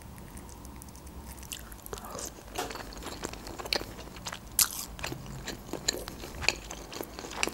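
Close-miked chewing of a peeled, lemon-dressed king prawn: soft, irregular wet mouth clicks and smacks as it is chewed with closed lips.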